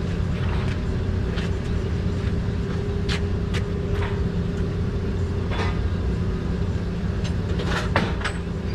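Metal hand tools clicking and clinking a few times as a socket is swapped on a ratchet, over a steady low mechanical hum.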